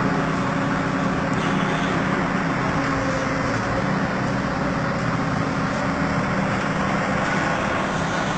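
Diesel engine running steadily at a constant speed, with an even low drone throughout.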